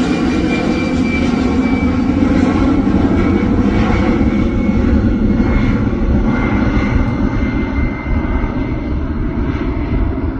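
Airbus A320-216 jet engines running: a loud, steady rush with a thin high whine that drifts slightly lower in pitch, easing a little near the end.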